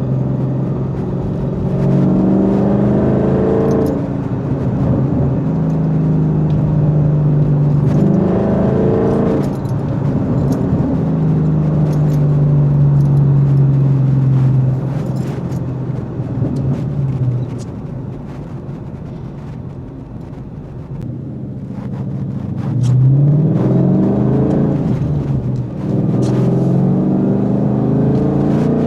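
Coyote 5.0 V8 of a 2014 Mustang GT, through an off-road H-pipe and Corsa Xtreme axle-back exhaust, pulling hard with rising pitch four times and cruising steadily in between. It eases off and goes quieter for a few seconds after the middle.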